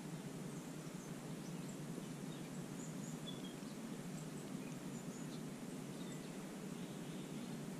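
Faint, scattered short bird chirps over a steady low background noise.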